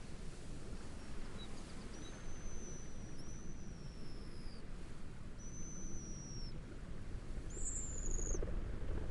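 A bird giving thin, high whistles (three long, slightly falling notes, then a higher wavering one near the end) over a steady low rush of wind and waves.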